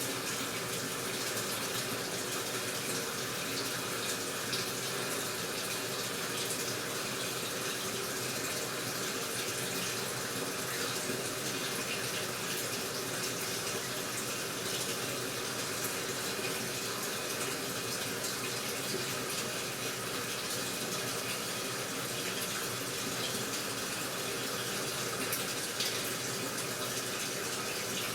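AQUA washing machine filling with water: a steady stream pours into the tub at an even level without let-up.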